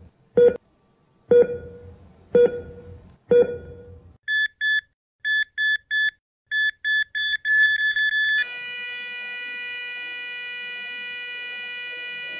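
Heart-monitor sound effect: deep heartbeat thuds about once a second, then short high beeps that come faster and faster from about four seconds in. At about eight seconds the beeps run into one continuous flatline tone, the sign that the heart has stopped.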